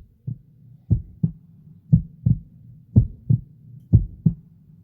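Heartbeat sound: paired low thumps, lub-dub, repeating about once a second.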